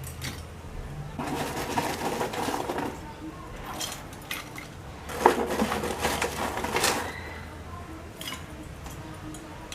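Kitchen pots and utensils clattering: a few sharp knocks and clinks of metal cookware, the loudest about five seconds in.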